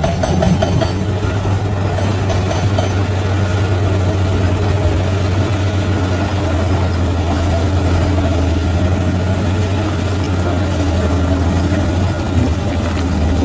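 Bulldozer's diesel engine running with a steady, deep drone.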